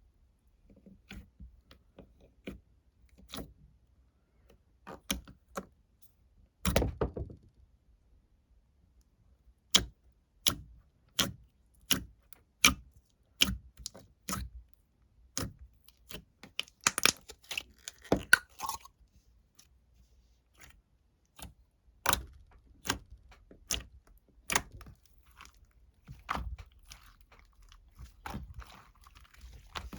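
A string of sharp taps and clicks, irregular, about one or two a second, with one heavier knock about seven seconds in and a short rustle about two-thirds of the way through.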